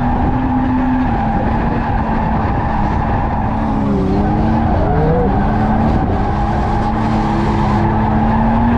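Drift car engine held at high revs with tyres squealing as the car slides, its pitch dipping and rising a few times about four to five seconds in.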